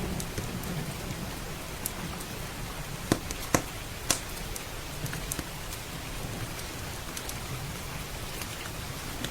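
Steady heavy rain, with a low rumble of thunder dying away at the start and a few sharp pops from a crackling wood fire, two or three close together near the middle.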